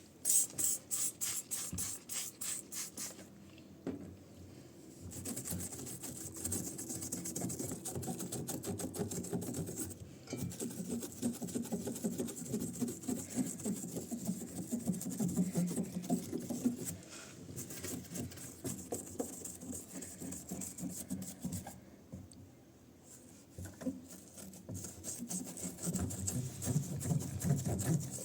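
Repeated rubbing and scraping strokes by hand: a quick run of short strokes in the first few seconds, then steadier scrubbing, with a quieter lull a little past the middle.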